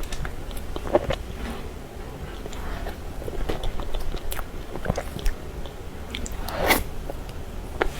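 Close-miked eating sounds: a person biting and chewing soft cream cake, with scattered wet mouth clicks and smacks and one louder smack about two-thirds of the way through.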